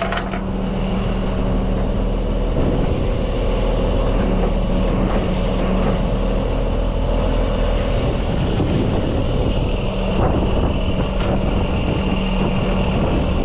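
Heavy truck's diesel engine idling steadily, with a couple of light knocks about ten seconds in.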